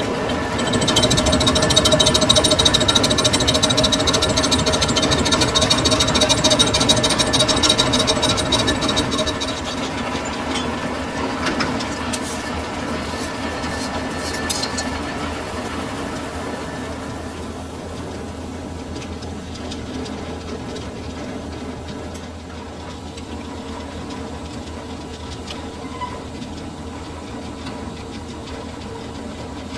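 Metal lathe running with a steady hum. For the first ten seconds or so a louder, harsh cutting noise rides on it, then it eases off and leaves the machine running more quietly.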